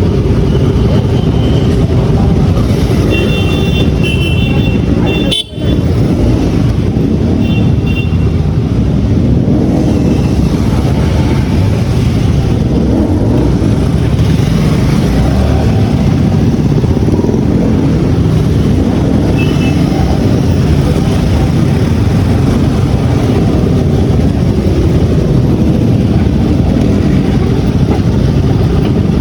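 Steady low rumble of motorcycle engines and traffic, with short vehicle horn toots a few seconds in, around eight seconds and again near twenty seconds.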